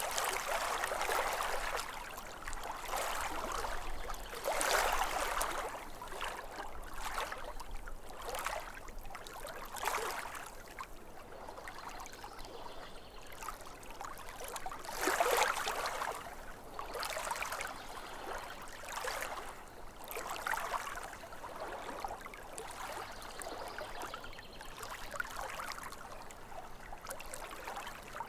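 Small lake waves lapping and splashing against the shore in uneven swells every second or two. The strongest swells come near the start, about five seconds in, and about fifteen seconds in.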